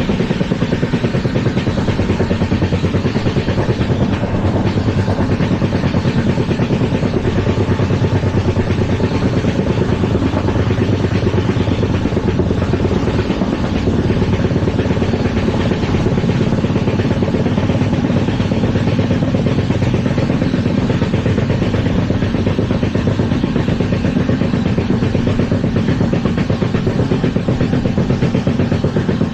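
Steady running rumble and rattle of an LHB passenger coach rolling at speed over the track, heard from on board.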